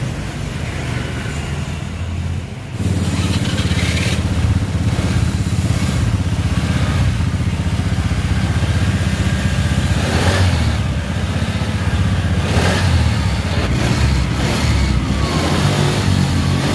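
Engine of a 110 cc Honda automatic scooter running with its newly fitted carburetor, getting louder about three seconds in and then running steadily.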